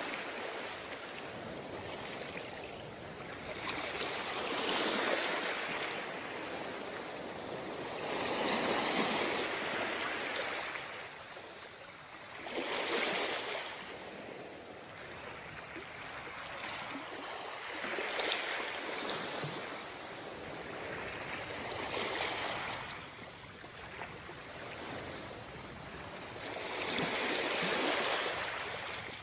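Ocean waves breaking and washing up the beach, a continuous hiss that swells about every four seconds as each wave comes in, some seven times.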